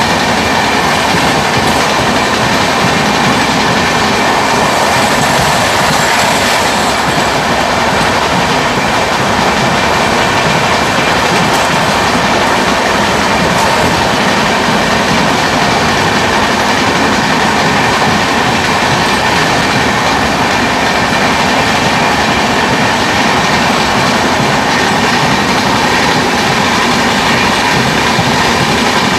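Loud, steady rush of two passenger trains running side by side at speed on adjacent tracks: wheels on rail and wind, heard from the open door of a moving coach.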